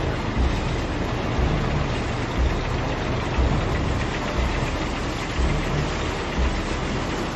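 Tracked armoured personnel carriers driving past in a column, their heavy engines running with a dense, noisy rumble and a low beat about once a second.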